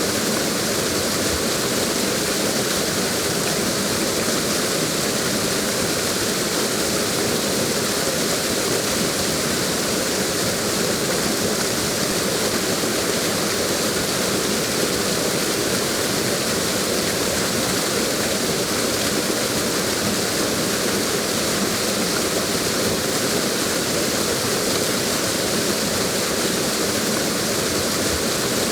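Waterfall rushing: a steady, even roar of falling water with no change or break.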